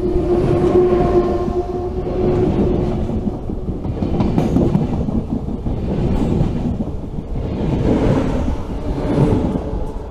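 A train running past at speed, its wheels clattering over the rail joints in regular swells, about one every couple of seconds. A steady hum in the first two seconds fades out, and the sound drops away near the end as the train clears.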